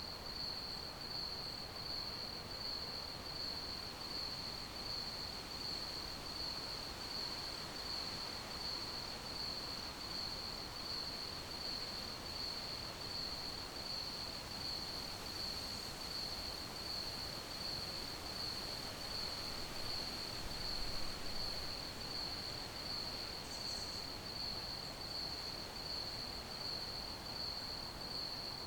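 Crickets chirping: one high, steady, evenly pulsing chirp that keeps on without a break, over a constant soft hiss. A brief low thud comes about three-quarters of the way through.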